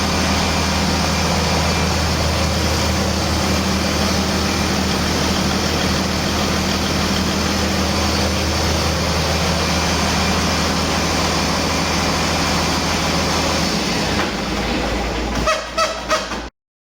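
Paccar MX13 inline-six diesel engine running steadily at idle on a test run, sounding healthy. About fourteen seconds in the sound changes, a few knocks follow, and it cuts off abruptly near the end.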